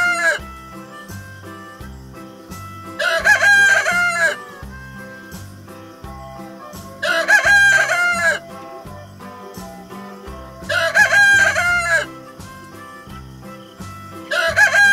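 Rooster crowing cock-a-doodle-doo, about once every four seconds: three full crows, the tail of one at the start and another beginning near the end, over a soft low background beat.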